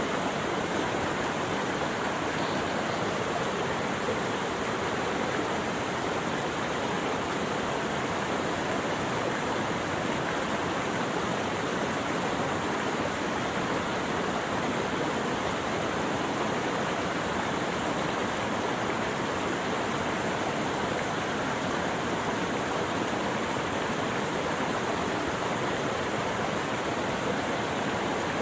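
Steady rushing water, like a stream or waterfall, an even unbroken hiss with no change in level.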